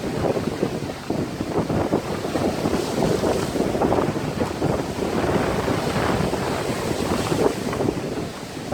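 Strong wind buffeting the microphone over wind-driven lake waves breaking on the shore, a rough, irregular rush that surges and eases.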